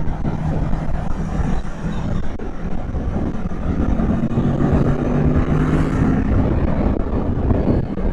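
Kawasaki Z650's parallel-twin engine running under way, its pitch rising about four seconds in as it pulls harder, then easing back, over a rush of wind and road noise.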